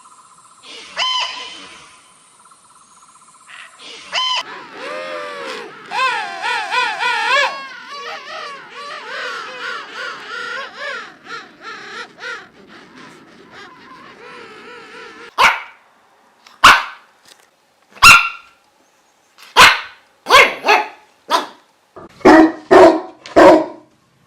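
A dog barking: single sharp barks a second or more apart, then coming quicker near the end. These follow a stretch of high, wavering whining cries.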